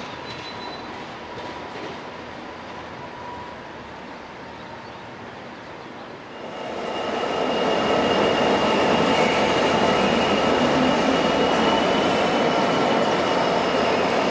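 Train at a station: a low rumble with a faint steady tone, then about six seconds in the train grows much louder and holds there, with a steady high whine over the rumble.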